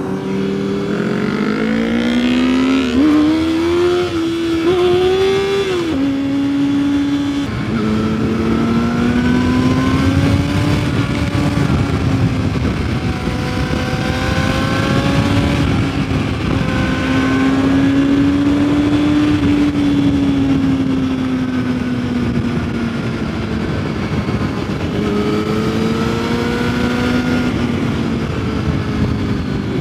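Sport motorcycle engine under way, accelerating: its pitch climbs over the first few seconds and drops at a couple of upshifts, then it cruises with the revs rising and falling gently. A steady rush of wind noise runs underneath.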